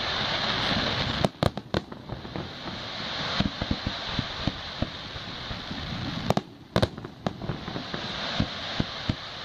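Aerial fireworks display: sharp bangs of shells bursting, three close together about a second in and three more around six to seven seconds in, over a steady crackling of the shells.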